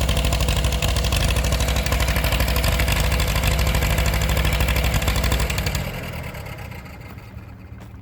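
1944 Farmall H tractor's four-cylinder engine running steadily, then growing quieter about five and a half seconds in.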